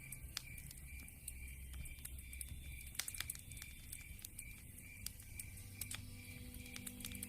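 Wood fire crackling in a fireplace, with many small, irregular pops and snaps.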